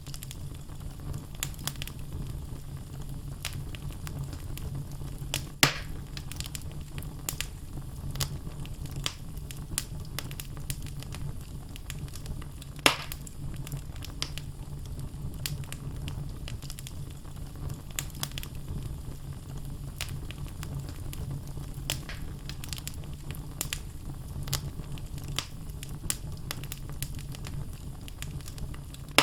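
Wood fire burning in a fireplace: logs crackling with frequent small pops over a steady low rumble of flame. Two louder pops come about six and thirteen seconds in.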